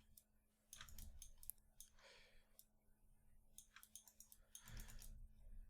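Faint, scattered clicks of a computer mouse and keyboard, irregular and a few each second.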